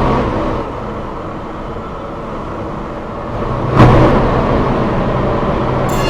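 MRT-3 light-rail train running, heard on board: a steady rumble of motors and wheels on the track, with a single loud clunk about four seconds in. A high ringing tone starts right at the end.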